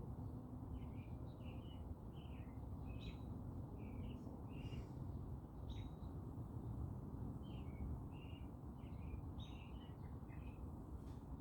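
Small birds chirping in short, quick notes scattered throughout, with a few sharper high notes standing out, over a steady low background rumble.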